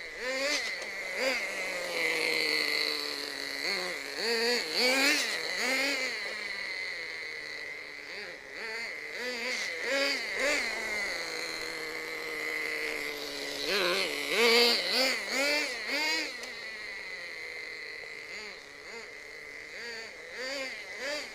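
Small nitro engine of a 1/16-scale CEN MG16 RC monster truck being driven, revving up and down again and again with a high buzzing note. It revs hardest twice, once near a quarter of the way in and again about two-thirds of the way through.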